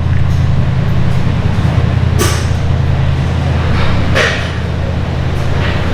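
Steady low mechanical drone of a machine or engine running, broken by three short hissing bursts.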